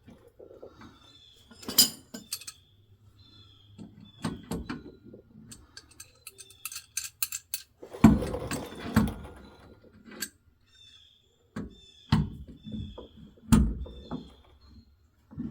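Hand tools and bolts clinking and knocking against the truck's metal suspension parts while a rear shock absorber is being fitted, with a quick run of clicks about seven seconds in and a louder clank with dull thuds just after.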